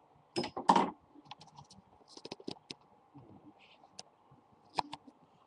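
A sealed cardboard trading-card box being opened and handled by hand: two louder scraping tears a little under a second in, then scattered light clicks and rustles of cardboard and wrapper.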